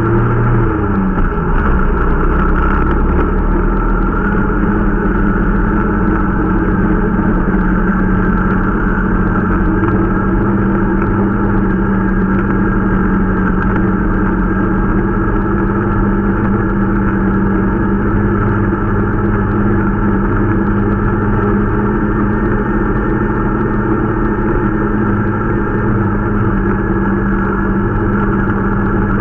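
Irbis Dingo T125 snowmobile's 125 cc single-cylinder four-stroke engine running steadily under way, its note dipping slightly about a second in and then holding even. The machine is being run in.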